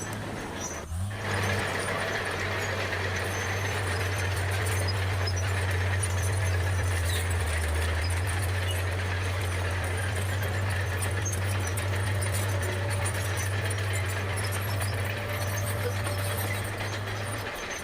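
Bulldozer's diesel engine running steadily under load, a deep even hum with a faint high whine above it, briefly cut off about a second in.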